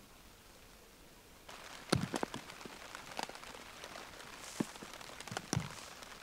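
Near silence at first, then rain starts to be heard about a second and a half in: a steady hiss with scattered louder drops tapping close by, a few of them with a dull thud.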